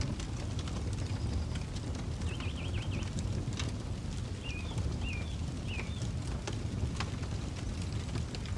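Campfire crackling with scattered sharp pops over a steady low rumble of wind on the microphone. A bird calls briefly: a short trill about two seconds in, then three short chirps around the five-second mark.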